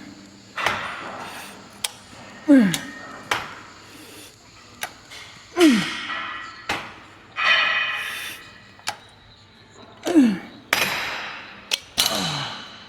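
A man straining through weight-lifting reps: a short grunt falling in pitch about every two and a half seconds, each followed by a hard, noisy exhale. Sharp clicks come between them, typical of the weight machine's stack or frame.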